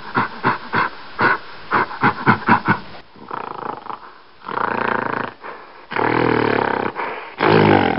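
Gorilla vocalising: a quick run of short grunts, about four a second, then from about four and a half seconds in, longer and deeper growling calls.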